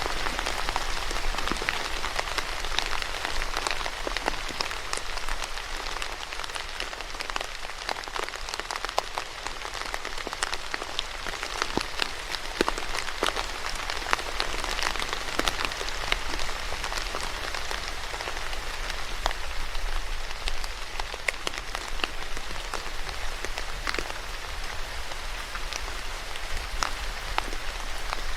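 Steady rain falling on a surface, an even hiss dotted with many individual drop taps.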